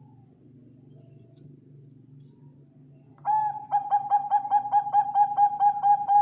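Zebra dove calling. After about three seconds of faint low hum, a loud call starts with a held note, then runs into a fast string of cooing notes, about five a second.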